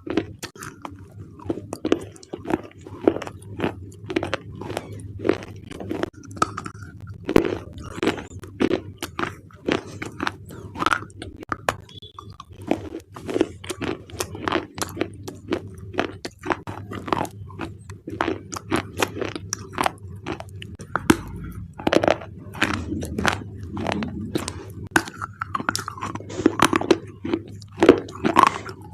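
Close-up crunching and chewing of dry, hard black slate clay bars: dense, irregular crisp cracks as pieces are bitten and ground between the teeth, over a faint steady hum.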